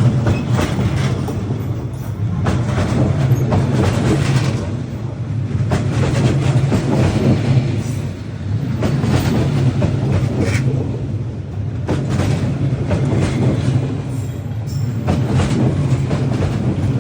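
A diesel-hauled passenger train running past at close range along a street track. A steady low rumble is broken by repeated wheel clacks over rail joints as the carriages roll by.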